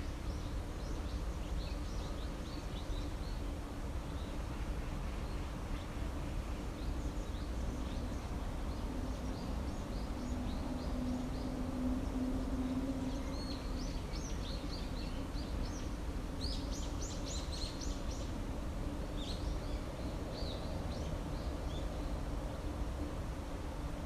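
Songbirds chirping and singing in short high phrases, with a quick run of rapid notes about two-thirds of the way through. Under them runs a steady low rumble and a low hum that swells slightly just before the middle.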